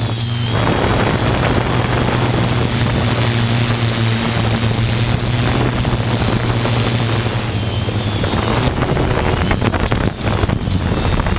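Multirotor drone's motors and propellers humming steadily, under heavy wind noise on the microphone that swells about half a second in and buffets choppily near the end.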